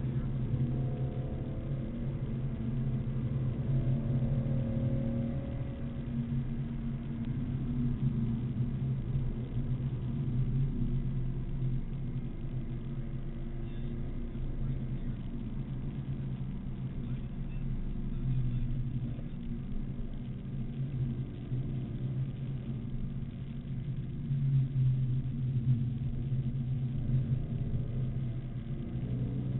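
BMW Z4 M Coupe's straight-six engine heard from inside the cabin under load on a race track, its pitch climbing in the first few seconds and then rising and falling with throttle.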